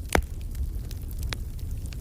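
Campfire burning with a low steady rumble and crackling: a sharp loud pop just after the start and a smaller one a little over a second in, among faint ticks.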